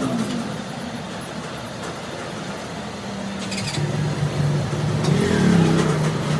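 An engine running with a steady low hum that grows louder about four seconds in, with a few light clicks just before.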